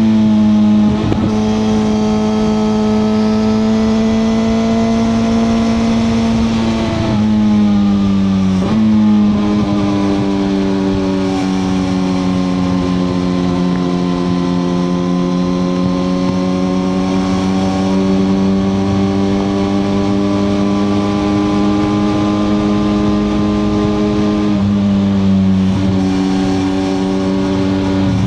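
2021 Suzuki GSX-R1000R's inline-four engine running under way at steady revs, its note drifting slowly up and down, with quick changes in pitch about seven, nine and twenty-five seconds in.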